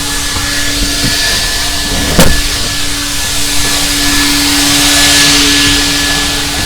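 Car-wash vacuum running steadily with a constant hum and hiss, and one sharp knock about two seconds in.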